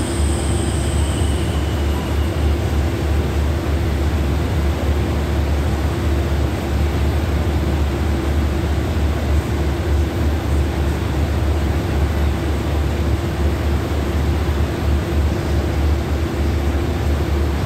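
Train carriage running, a steady low rumble with a steady droning hum underneath.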